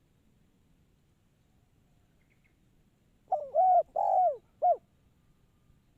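Spotted dove (tekukur) cooing: one phrase of about four coo notes, two long ones in the middle and a short one to close.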